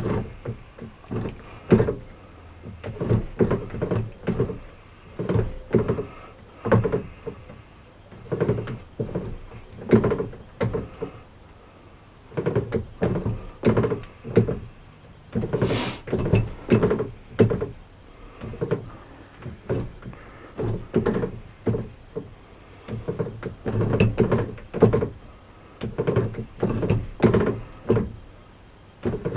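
Lathe keyway broaching by hand: the cutter is stroked repeatedly through the bore of a sleeve, each stroke giving a short clunk, one or two a second in uneven runs with brief pauses.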